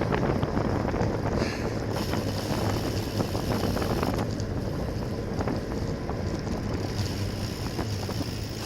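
Wind rushing over a bicycle-mounted camera's microphone while riding, with a steady low road and drivetrain hum underneath.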